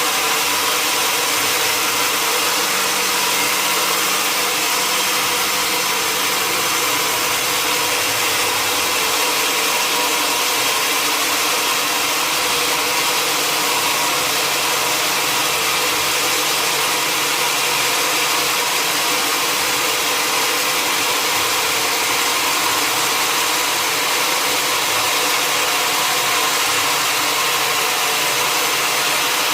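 Sawmill machinery running steadily: a constant mechanical noise with a steady hum, holding one level throughout.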